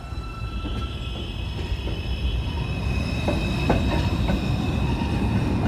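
R142 subway train heard from inside the car as it runs along the track, getting gradually louder. A steady low rumble carries a few high whining tones, and a few sharp clacks from the wheels over rail joints come between about three and four and a half seconds in.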